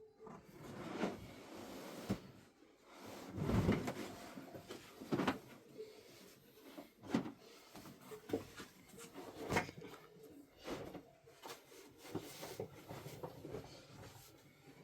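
A series of irregular knocks and bumps, as of objects being handled and set down, with the heaviest thud about three and a half seconds in.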